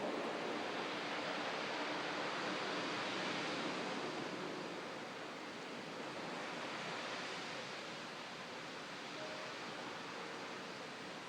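Pacific Ocean surf breaking, a steady wash of waves heard from a distance. It swells over the first few seconds, eases off, and rises again a little near the middle.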